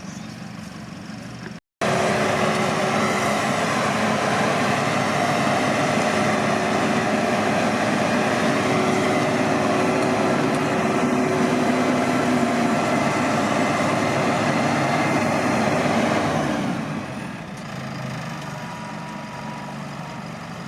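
Rice combine harvester running steadily, its engine and machinery giving a loud even drone with several constant tones. It cuts out briefly under two seconds in. About three quarters of the way through the sound drops to a lower, steady level.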